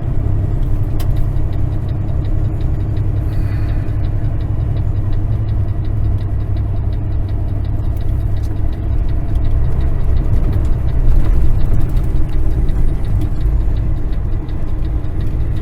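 Semi-truck's diesel engine running steadily under way on the road, a constant low hum, with a faint rapid ticking over it.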